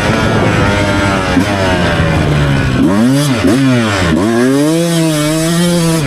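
Beta 200 Race Edition two-stroke dirt bike engine being ridden hard. The note sags gradually at first, then blips up and down several times in quick succession about three seconds in, then holds a long steady pull.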